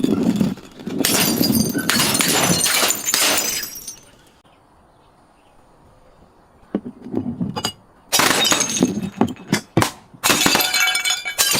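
Glass being crushed and shattering: dense crackling and tinkling shards for about four seconds, a lull of nearly three seconds, then more bursts of breaking glass.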